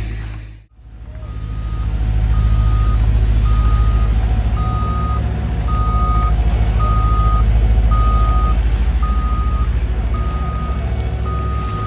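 Construction vehicle's backup alarm beeping steadily at about one beep a second, over the low rumble of a heavy diesel engine. The beeping begins about a second in, after a brief gap.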